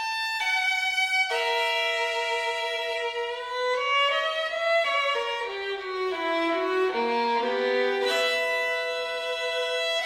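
Violin music: a bowed melody moving from note to note with vibrato, stepping downward through the middle and jumping back up to higher notes near the end.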